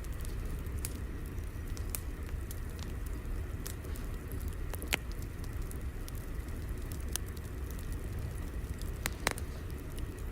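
Fire crackling over a steady low rumble, with scattered sharp pops; the loudest come about five seconds in and again near nine seconds.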